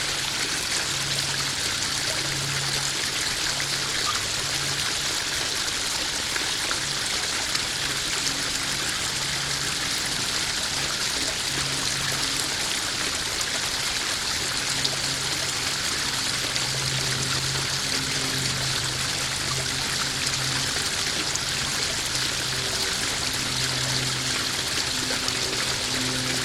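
Koi pond waterfall: water running and trickling steadily, with a faint low hum that comes and goes underneath.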